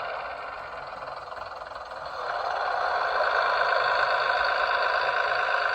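Class 101 DMU diesel engine sound from the sound decoder of a Bachmann model, played through its small onboard speaker. The engine note dies away, then revs up again about two seconds in and holds steady, as the gears are changed.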